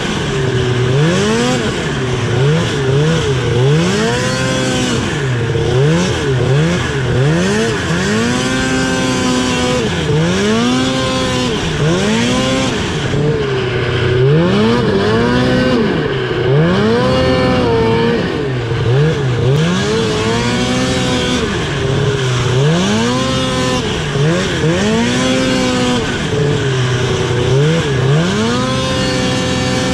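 Two-stroke twin engine of a 2000 Ski-Doo Summit 700 snowmobile, revved up and let back down over and over, its pitch climbing and falling about every couple of seconds as the throttle is worked on and off.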